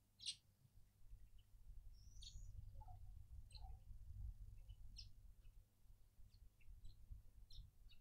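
Faint, scattered short chirps from small birds, the sharpest about a quarter of a second in, over a low steady rumble.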